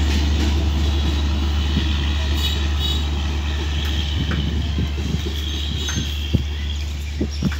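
Bangladesh Railway passenger train of LHB coaches running away along the track, its rumble slowly fading. A few short clicks come near the end.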